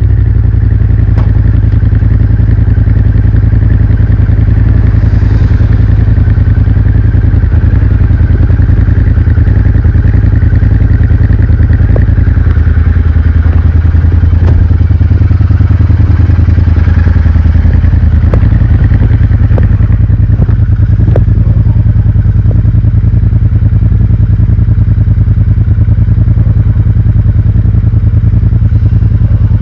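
Royal Enfield Interceptor 650's 648 cc parallel-twin engine running at a steady speed through its stock exhaust, with an even, unchanging pitch.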